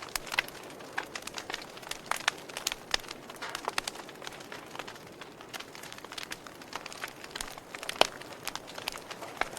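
Wood fire in a fireplace crackling, with irregular sharp pops over a soft steady hiss; one pop near the end is the loudest.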